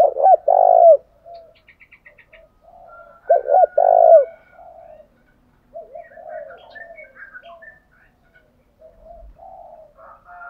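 Spotted doves cooing: two loud coo phrases, one at the start and one about three seconds in, then quieter overlapping cooing with a few higher chirps.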